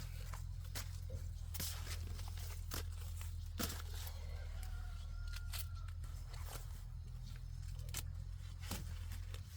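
Crisp snaps and crackles of dry plant material at irregular intervals, with rustling between them, over a steady low hum.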